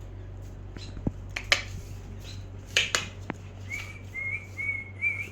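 A pet bird whistling a run of four short, level notes in the last second and a half, after a few sharp clicks and taps earlier on.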